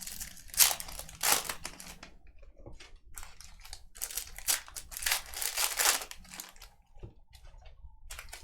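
Crinkling and rustling of trading-card pack wrappers and cards being handled, in irregular bursts: a couple of short ones about a second in, and a longer spell around four to six seconds in.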